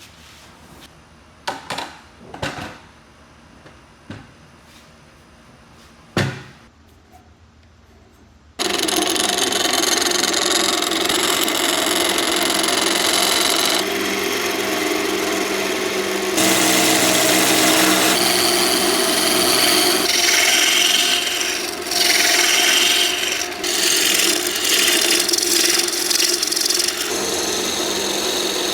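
A few light knocks of wood being handled, then about eight and a half seconds in a power tool starts up and runs steadily on wood, a constant hum under a rough grinding noise that shifts as the tool is worked.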